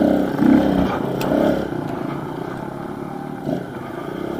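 Pit bike's small single-cylinder engine being ridden, revving up in a few surges in the first second and a half, then running steadier at lower revs.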